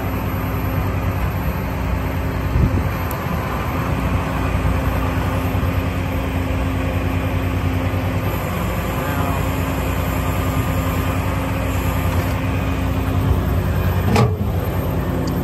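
An 8.3-litre Cummins diesel in a service truck running steadily to power the hydraulic crane while its winch is run up. There is a sharp clunk near the end.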